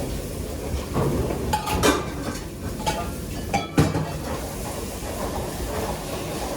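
Kitchen clatter over a steady low rumble: pans and utensils knocking, with the sharpest knocks about two seconds and nearly four seconds in.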